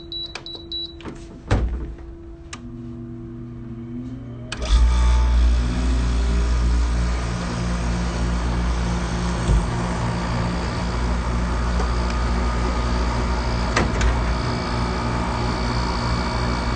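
Gold Star window air conditioner starting up: a few short beeps and clicks, a quieter steady hum from about three seconds in, then about four and a half seconds in a much louder low hum cuts in and runs steadily.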